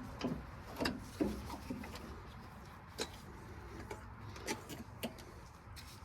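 A few faint, scattered clicks and taps of small parts being handled during work on an engine's ignition, over a low steady background.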